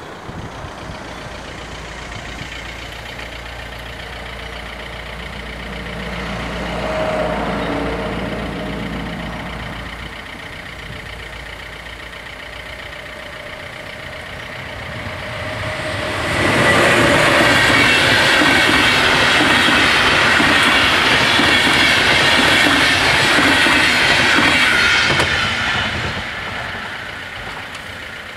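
Intercity train hauled by a DB class 101 electric locomotive passing the level crossing: a steady rush of wheels on rail with clickety-clack, loud for about ten seconds from around sixteen seconds in, then fading. A softer rise and fall of noise comes about seven seconds in.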